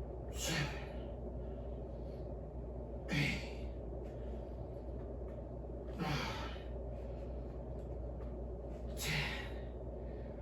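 A man's forceful breaths, exhaled with effort on each rep of an incline dumbbell bench press: four sharp exhalations about three seconds apart.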